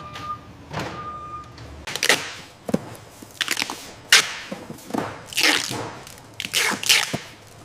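A forklift's warning beeper sounds twice, short and high, about a second apart; then a run of irregular thuds and swishing knocks follows as a pallet is handled.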